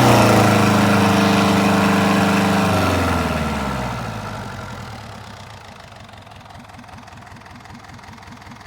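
Perkins 4108 four-cylinder marine diesel engine running steadily at raised revs, then throttled back about three seconds in and slowing over the next few seconds to a quieter, evenly pulsing idle.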